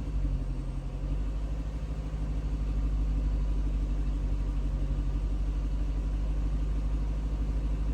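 2003 Lexus SC430's 4.3-litre V8 settling into a steady idle, a low, even rumble.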